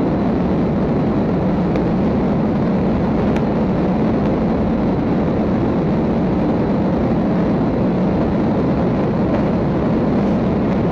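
Steady road and engine noise of a police patrol car driving at speed during a pursuit, even and unbroken.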